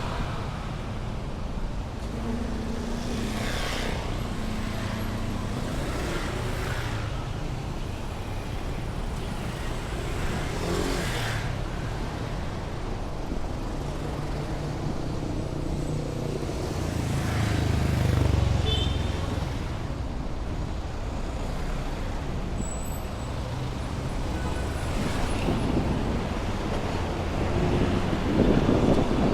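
Rush-hour city street traffic: cars and motorcycles running and passing close by, with a steady low engine rumble. A heavier engine swells loudly about two-thirds of the way through.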